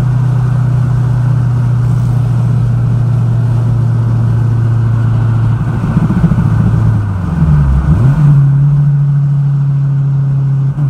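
Turbocharged Acura RSX 2.0-litre four-cylinder engine heard from inside the cabin while driving, holding a steady drone. About six seconds in the pitch wavers and briefly drops, then settles steady again a little higher.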